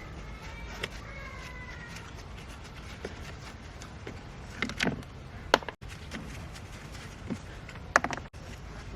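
A brief high, wavering squeak with overtones near the start, then a few sharp clicks and knocks over a steady low hum.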